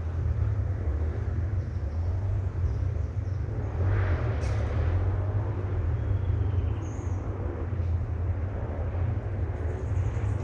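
Off-road trail motorcycle engines running with a steady low rumble, briefly rising about four seconds in.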